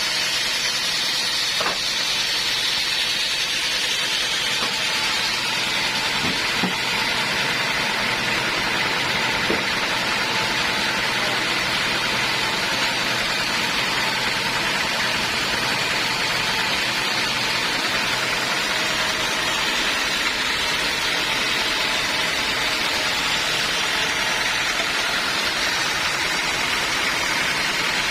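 Homemade band sawmill running steadily while sawing a teak log, an even, unbroken hissing machine noise.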